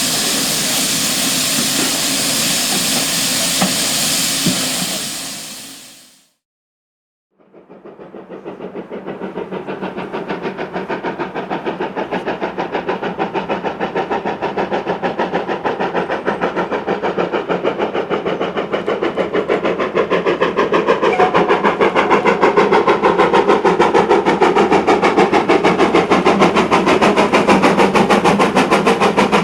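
Steam locomotive: first a loud, steady hiss of escaping steam that fades away, then after a short break a locomotive working, its rapid, regular exhaust beats growing louder for about fifteen seconds and then holding steady.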